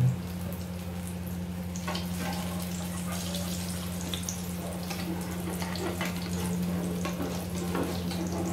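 Egg-and-eggplant omelette frying in shallow oil in a nonstick pan: steady sizzling dotted with small crackles and pops, with a few light scrapes of a metal spatula against the pan. A steady low hum runs underneath.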